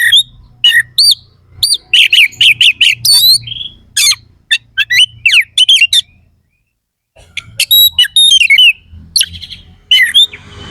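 Oriental magpie-robin (kacer) singing loudly in rapid bursts of sharp whistles and harsh chattering notes, with a pause of about a second just past the middle.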